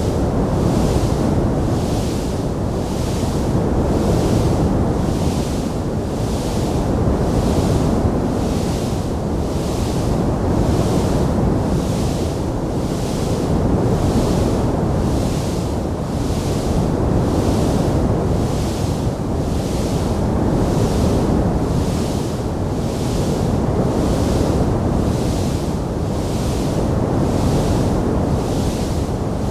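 Steady low rushing noise with no distinct crackles, swelling and easing every few seconds, over a fainter hiss that pulses about once a second.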